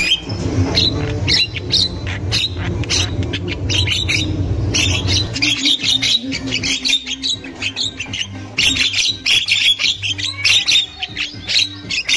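Javan mynas chattering: a dense run of rapid, harsh, squawking calls with short chirps, over a low steady rumble that fades about halfway through.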